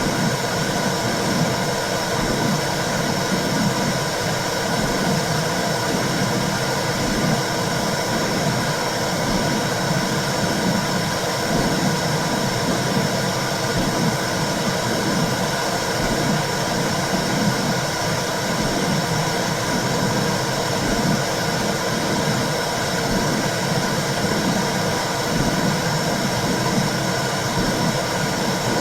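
Womb sound for soothing babies: a steady whooshing noise with a slow, low rhythmic pulse running through it.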